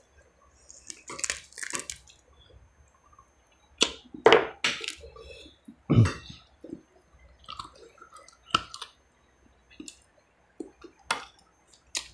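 Close-up eating sounds of a person chewing rice and beef ribs eaten by hand, with scattered short clicks and mouth noises. A dull knock comes about six seconds in, as a hand meets the plate or bowl.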